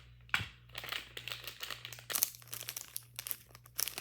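A plastic Lego parts bag being torn open and crinkled by hand, a sharp snap about half a second in followed by irregular crackling.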